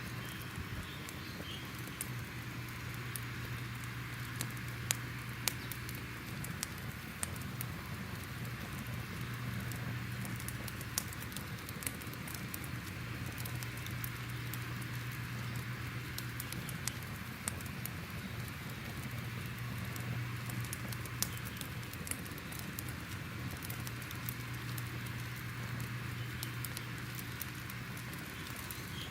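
Fire crackling: irregular sharp pops and snaps over a steady hiss and low hum.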